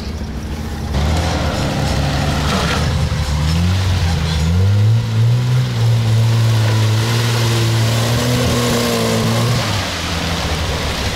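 A car engine under load as the vehicle pulls away: the revs climb about four seconds in, hold steady for several seconds, then ease off near the end.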